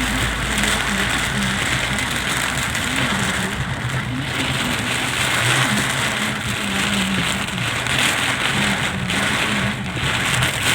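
Heavy rain pouring down in a storm, a steady hiss, with a low hum underneath.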